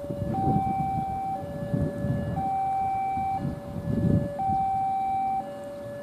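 Railway level-crossing warning alarm sounding a two-tone hi-lo signal, switching pitch about once a second, which warns that a train is approaching. Low rumbles come and go under it.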